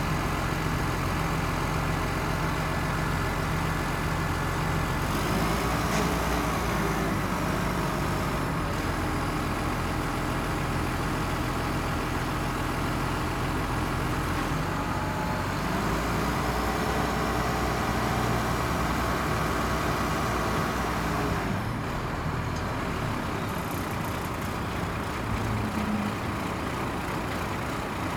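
Engine of a 1996 Ford LN7000 crane truck running, twice speeding up for a few seconds and settling back. It runs lower near the end.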